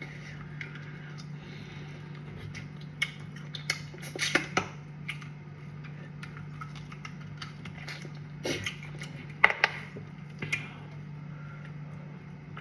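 Eating sounds at a meal of fufu and soup: scattered clicks and soft clinks of a plate or bowl and mouth noises, the sharpest click about three-quarters through, over a steady low hum.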